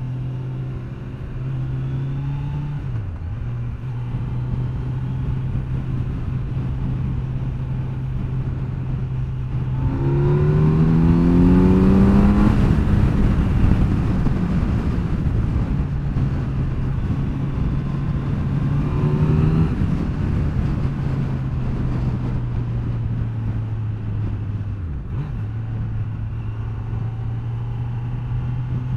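Kawasaki Z900's inline-four engine running at a steady cruise under wind noise. About ten seconds in it revs up hard, its pitch rising for two or three seconds before settling back to cruise. Its pitch dips briefly near the start and again near the end.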